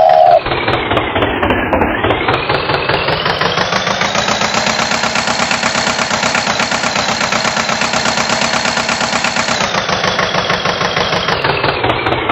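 Tractor engine running with a fast, even chugging; its revs climb over the first few seconds, hold, then drop back about ten seconds in.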